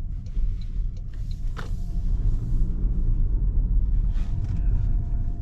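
Steady low road and tyre rumble heard inside the cabin of a 2025 Toyota Camry SE hybrid while driving, with brief higher hiss now and then.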